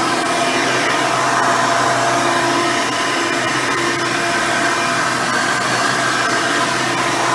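Hoover Elite 350 upright vacuum running steadily with a swapped-in 7-amp motor and its original seven-blade fan, a steady whine over rushing air as it cleans.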